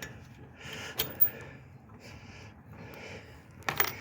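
Sharp clicks as a cotter pin is worked out of the lawn tractor's snowblower attachment linkage: two about a second in and a quick cluster near the end, with breathing close to the microphone.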